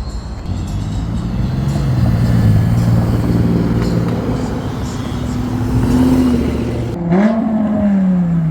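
Car engine revving and pulling away; about seven seconds in one engine revs up sharply, then its pitch falls steadily as it drives off.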